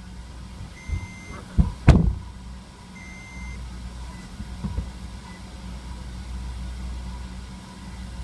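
Steady low rumble of an idling car. About a second and a half in come two sharp knocks in quick succession, and there are two short, high electronic beeps, one either side of the knocks.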